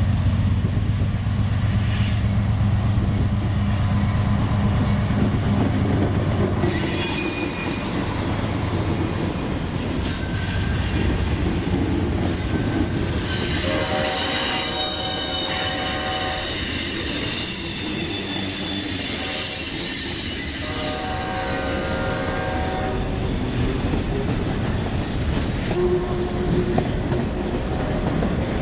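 A Norfolk Southern train passing close by: a deep diesel locomotive hum for the first several seconds, then cars rolling by with high-pitched wheel squeal and rail clatter. A train horn sounds twice, once around the middle and again about three quarters through.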